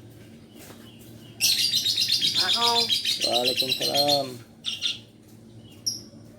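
Hill myna giving a loud, rapid chattering call for about three seconds, with a voice-like phrase mixed in, then a couple of clicks and one short high chirp near the end.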